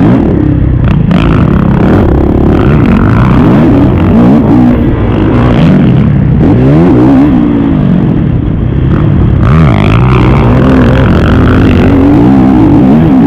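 Kawasaki KX450 four-stroke single-cylinder motocross bike engine at full race effort, revving up and down over and over as the throttle is worked on and off through the shifts, the pitch climbing and dropping every second or so.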